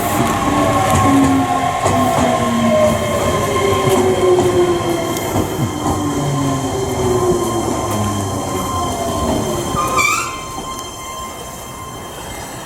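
Electric train decelerating into a station: its traction motor whine falls steadily in pitch over a rumble of wheels, and it ends with a short brake squeal as the train stops about ten seconds in.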